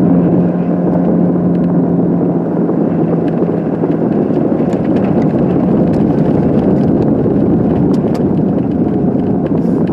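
Steady rumble of a car's interior while it sits at a traffic light or creeps along, with a low engine hum that fades about a second and a half in.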